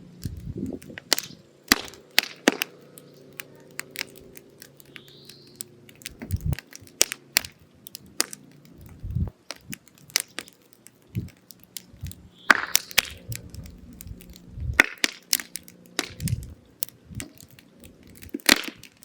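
Firewood burning in a mangal, crackling with irregular sharp pops and snaps as the wood burns down to coals for shashlik.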